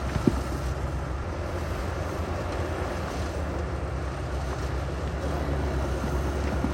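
Heavy diesel earthmoving machinery running steadily with a deep low hum. There is one short metallic knock just after the start.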